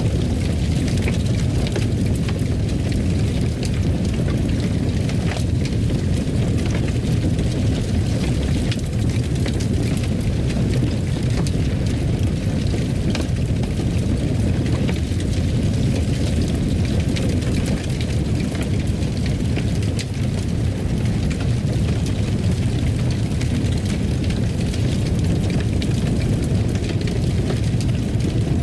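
Wood fire burning in a fireplace: a steady low roar with scattered small crackles and pops.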